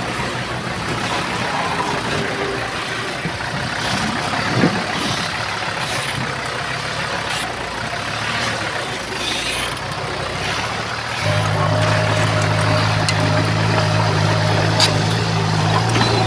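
Engines of heavy earthmoving machinery running, with scattered clanks over rough mechanical noise. About eleven seconds in, a steady low engine drone comes in and the sound gets louder.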